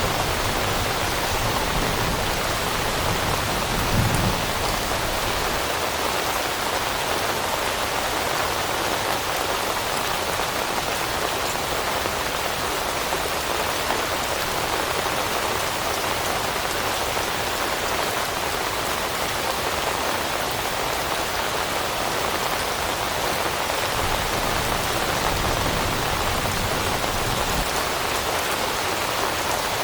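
Steady rain falling on leaves, an even hiss of many drops, with a brief low thump about four seconds in.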